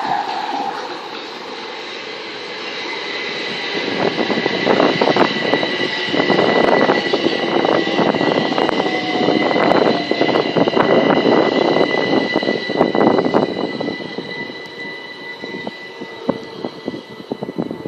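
A train passing through the station, its wheels clicking over the rail joints in a rapid, uneven run that swells and then fades, over a steady high whine.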